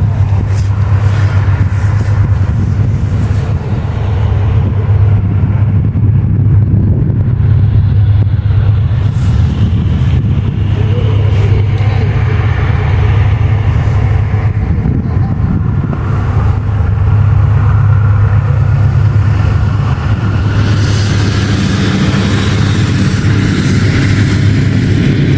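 A locomotive running steadily at close range with a loud, deep, constant hum, a few brief clicks partway through, and a rising hiss near the end.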